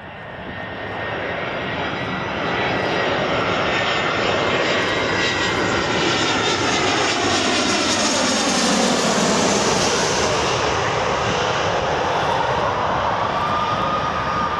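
Boeing 777-300ER's twin GE90 jet engines on landing approach, building to a loud, steady noise. Whining tones glide down in pitch as the aircraft passes.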